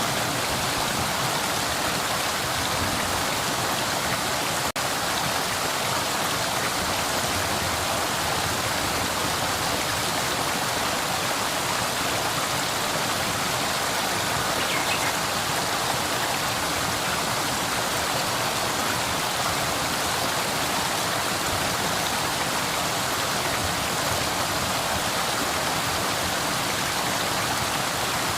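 Flowing river water rushing steadily, with a momentary dropout in the sound about five seconds in.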